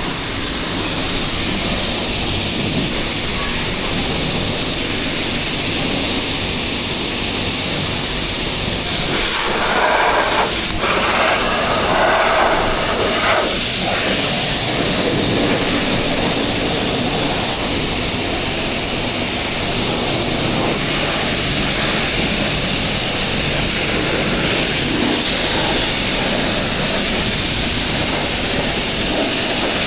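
Steady rush of wind noise over the microphone of a moving motorcycle, with the Honda CBR650R's inline-four and full-system exhaust running underneath. About ten seconds in, the mid-range swells for a few seconds.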